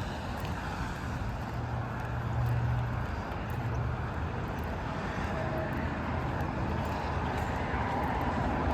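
Steady low rumble of motor vehicle noise, with an even hiss over it.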